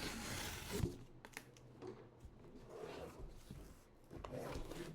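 Cardboard retail packaging being handled and opened: rustling and tearing, with one knock about a second in and a few light clicks after.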